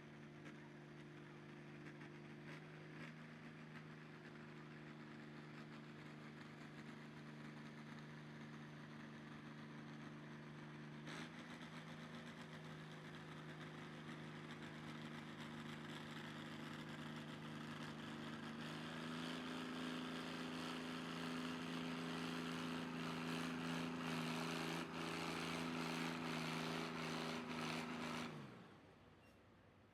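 Pulling vehicle's engine running at steady high revs under load, growing steadily louder, stepping up a little in pitch about two-thirds of the way through, then winding down quickly near the end.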